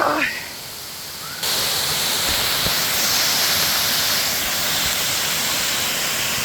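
Water rushing over an old mill dam, a steady hiss that suddenly gets louder about a second and a half in. A brief sliding voice-like sound comes at the very start.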